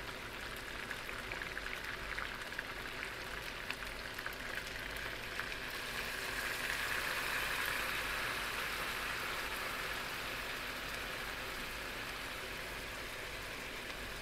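Chicken pieces sizzling and crackling in their own rendered fat in a hot wok as soy sauce and vinegar are spooned in; the sizzle grows louder for a few seconds in the middle, then eases back.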